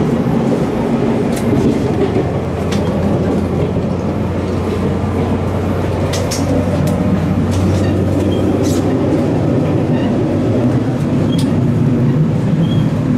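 Loud, steady rumble of a coupled 731-series electric train and KiHa 201 diesel railcar, heard in the gangway between the cars. There is a constant low hum under it and scattered clicks and rattles.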